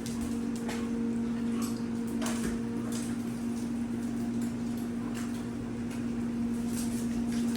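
A steady mechanical hum, with a few scattered light clicks and knocks over it.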